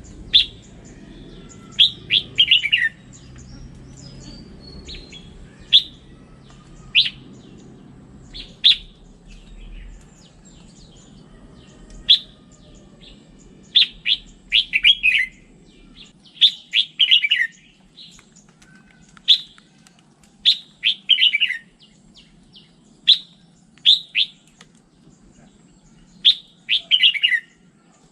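Red-whiskered bulbul singing: short, sharp whistled notes and quick chirpy phrases, repeated every second or two, over faint low background noise that fades about halfway through.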